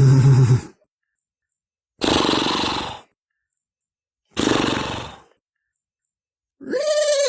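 A person imitating horse sounds with his own voice: a low grunt, two raspy, breathy snorts about two seconds apart, then near the end a whinny-like call that rises and then falls in pitch.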